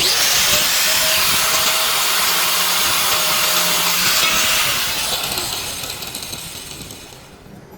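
A loud, steady hiss that starts abruptly, holds for about four seconds, then fades away over the last few seconds.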